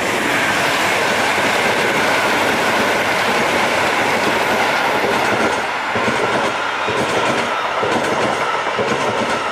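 Electric multiple-unit passenger train passing close by, a steady loud rush of wheels on rails with a high whine running through it. From about halfway through, the wheels click over rail joints in a regular rhythm.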